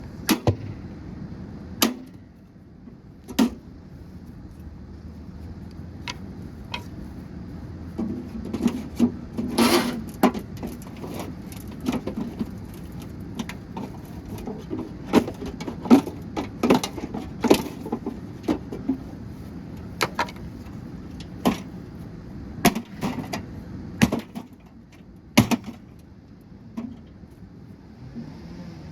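A gutted microwave oven being smashed apart: many sharp, irregular blows and knocks on its casing, a few scattered early on and coming thick and fast from about eight seconds in, over a steady low hum.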